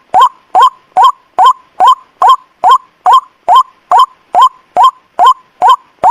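White-breasted waterhen (ruak-ruak) call used as a lure: a loud, short hooked note repeated rhythmically about two and a half times a second, evenly spaced.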